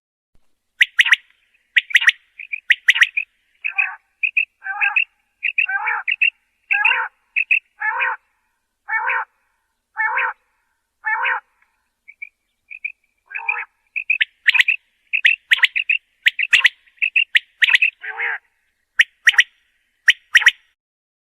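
Common quail calling: a long series of short, repeated calls, about one a second through the middle, with quicker, sharper notes at the start and again near the end.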